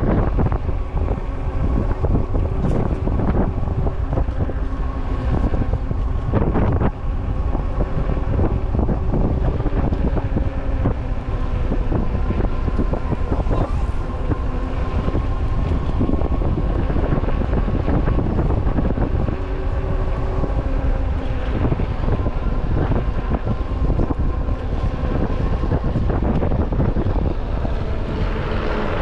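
Heavy wind buffeting the microphone of a moving camera, with a steady drone of several held tones underneath.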